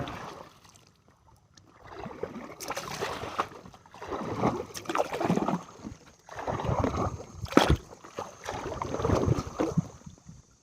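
Water sloshing and splashing around a kayak in four separate bursts, made while feeling for the lake bottom from the boat, with a single sharp knock about three-quarters of the way through.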